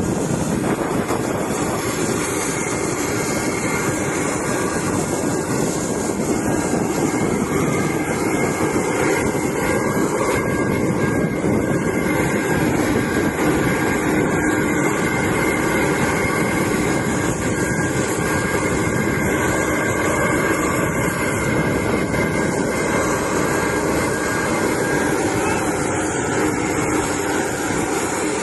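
Jet airliner engines running steadily: a continuous loud rush with a steady high whine.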